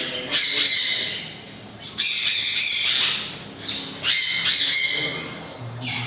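Parrots giving loud, harsh squawks: three long calls, each about a second long and about two seconds apart.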